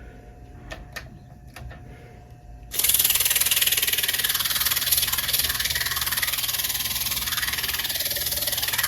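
Vintage box fan's electric motor humming with its blades off, then about three seconds in a strip of 320-grit sandpaper is pressed against the spinning motor shaft, starting a loud, steady, hissing scrape that goes on to the end, cleaning gunk off the shaft.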